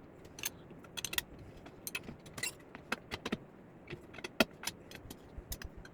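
Scattered light metallic clicks and clinks of steel setup pieces being handled and removed from a milling-machine setup, about a dozen irregular taps.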